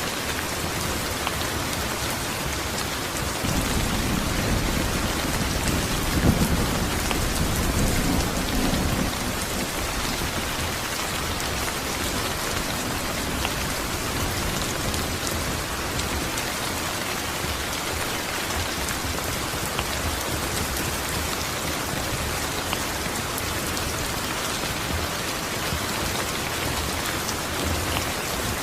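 Steady rain falling on a surface, with a low roll of thunder from about three to nine seconds in.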